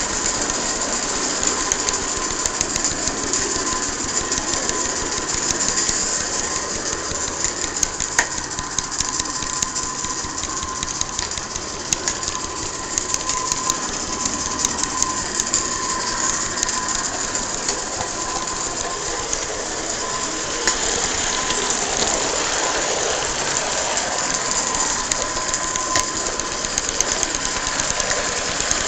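Garden-scale live-steam Accucraft Shay geared locomotive running with a log train: a fast, steady mechanical chatter over a constant hiss, with scattered sharp clicks from the wheels and track.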